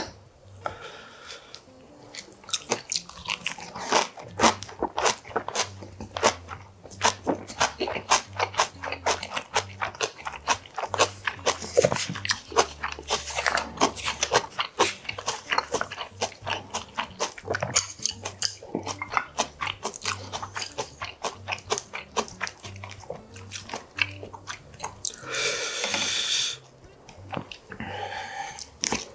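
Close-up eating sounds: crunchy biting and chewing of a raw-leaf ssam wrap, a rapid irregular run of crisp crunches and mouth clicks.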